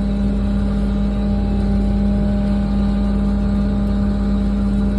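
A large truck's engine idling with a steady, even hum.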